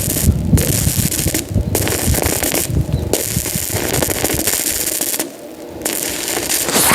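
Electric arc welding: a dense, loud crackle of the arc, broken by short pauses about four times as the arc is struck again, the longest near the end.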